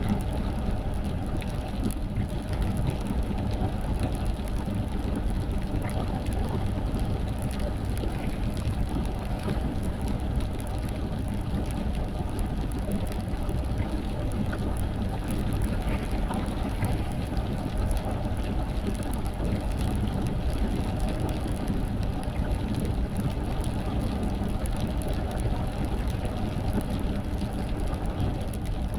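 Car driving in rain: a steady low rumble of road and engine noise, with rain mixed in.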